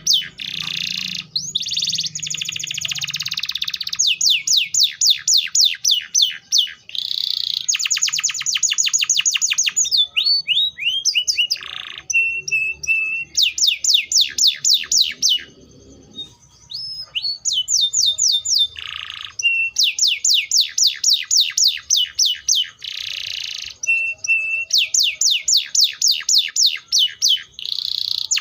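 Canary singing: long runs of quickly repeated, high sweeping notes, some runs faster than others, broken by buzzy rolls and short pauses between phrases.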